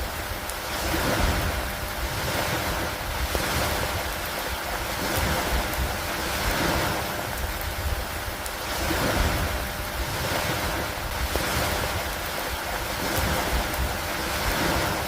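Steady rain over lake water, a continuous hiss that swells and eases about every two seconds like waves washing in, with a low, uneven rumble underneath.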